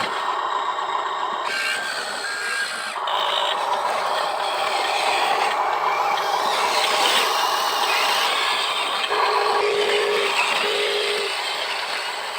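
Electric motors and plastic gearboxes of radio-controlled construction models whirring and grinding, with scraping and rattling of dirt. Short steady whines come and go as the motors start and stop.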